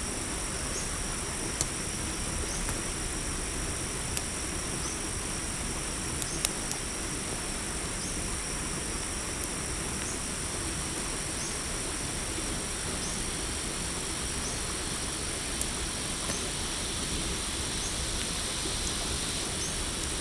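Crickets trilling steadily in a night forest, with a short chirp repeating about every second and a half, over the hiss of a campfire that gives a few sharp crackling pops, the loudest about six seconds in.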